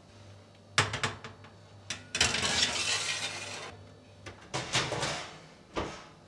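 Kitchen clatter of dishes and utensils being handled: several sharp clinks and knocks, with a rushing noise in the middle that lasts about a second and a half and fades out.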